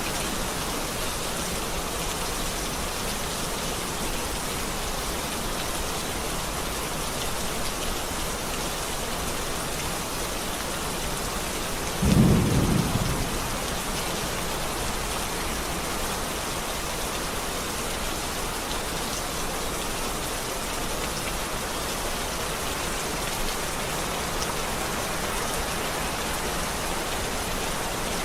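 Steady rain falling, with one short, low rumble of thunder about twelve seconds in.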